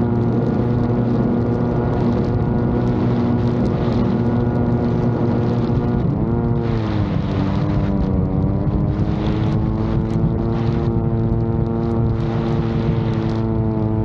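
VTOL drone's propellers running with a steady, droning hum, mixed with wind noise. About six seconds in the pitch dips sharply and recovers, and it wavers again shortly after, as the motors adjust thrust in the strong wind.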